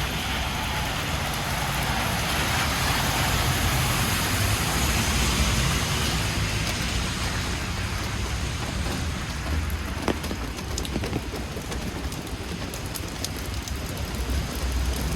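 Steady rain falling on a city street, with traffic on the wet road. The noise swells for a few seconds, from about two seconds in, as a vehicle passes, and a few sharp ticks sound in the second half.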